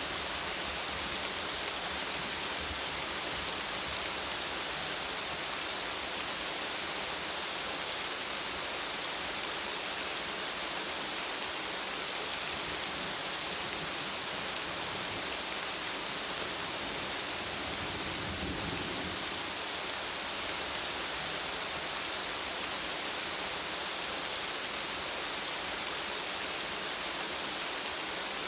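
Steady rain falling: an even, unbroken hiss, with a brief low rumble about two-thirds of the way through.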